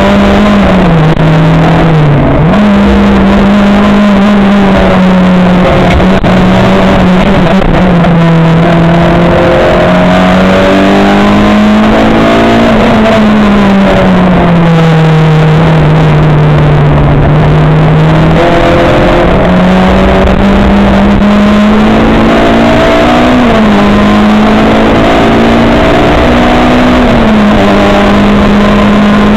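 Race car engine running hard on a lap, loud throughout. Its note climbs and falls with the throttle, dropping sharply at gear changes about a second in and near the middle, with a long fall around the middle and smaller steps near the end.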